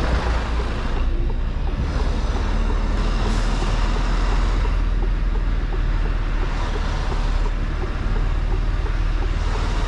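Mercedes-Benz Actros L truck's diesel engine running steadily with a deep low rumble, with road and mechanical noise over it.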